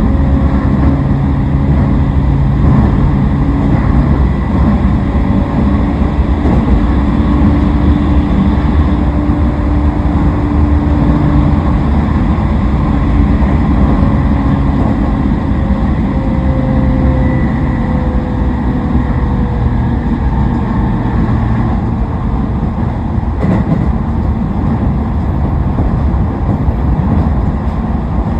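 Toei 10-300 series electric train with a Mitsubishi IGBT-VVVF inverter, heard from inside the car running at speed. A steady wheel-and-rail rumble runs under several drive tones. A couple of the low tones drop out a little before halfway, and a higher tone slowly falls in pitch after that.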